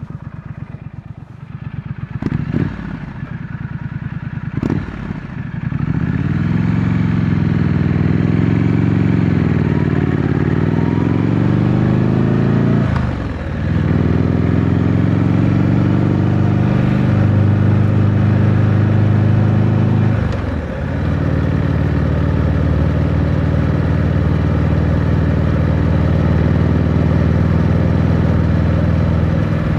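2025 Triumph Scrambler 900's 900 cc parallel-twin engine through its stock exhaust, heard from the rider's seat: a couple of clunks at low revs, then the engine pulls away, its pitch rising and falling. Twice the revs drop off sharply for a moment at gear changes, and the engine then runs steadily under way.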